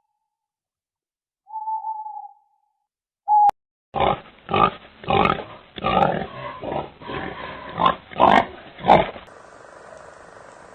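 An animal's calls: a short, steady whistle-like tone, then a fast run of about a dozen short, rough calls over some five seconds, which cuts off abruptly into a steady hiss.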